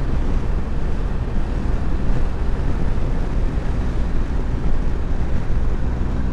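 Motorcycle engine running steadily at cruising speed, with wind rushing past, picked up by a camera mounted on the bike. There is a constant low rumble and no revving or gear changes.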